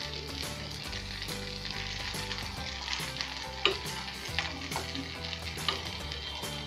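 Aloo tikkis (potato patties) sizzling in shallow oil on a flat nonstick tawa, a steady hiss, with a few sharp clicks and scrapes of a metal spatula as the patties are turned over.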